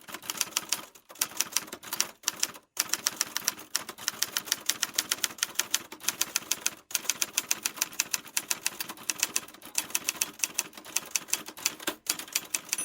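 Rapid typewriter key clicking in quick, even runs, broken by short pauses a few times.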